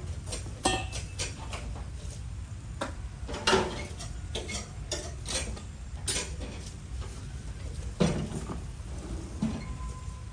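A series of irregular knocks and clinks, a few louder ones about three and a half and eight seconds in, over a steady low hum.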